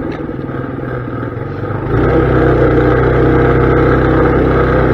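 Mini bike's small engine running under way: throttle eased off and quieter for the first two seconds, then opened up again about two seconds in and held steady and louder.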